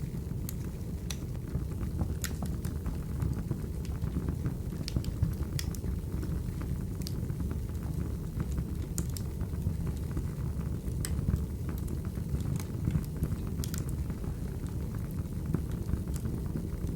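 Firewood burning: a steady low rumble of the fire with irregular sharp crackles and pops, roughly one every second or so.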